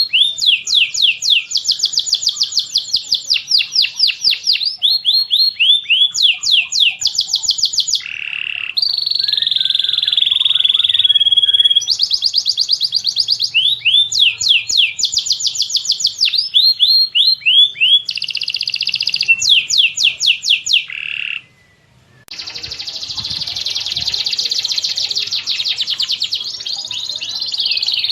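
Recorded cage-bird song mixing tengkek buto, cililin and canary: rapid runs of high, repeated down-slurred chirps alternating with stretches of continuous warbling. The recording cuts out briefly a little past two thirds of the way through, then resumes with denser chirping.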